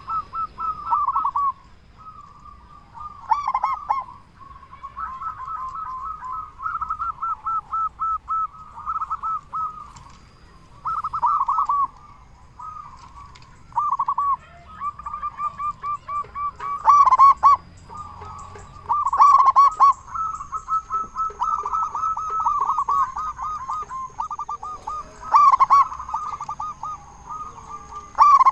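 Zebra doves cooing: phrase after phrase of quick runs of repeated notes, almost without pause, with a few louder calls in the middle. A faint steady high whistle comes in about two-thirds of the way through.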